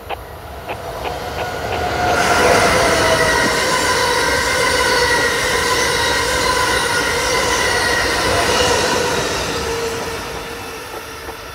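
Amtrak Acela Express high-speed trainset passing at speed. The rush of wheels on rail builds over the first two seconds after a few light clicks, then holds loud with several steady tones over the noise as the cars go by. It fades near the end as the rear power car passes.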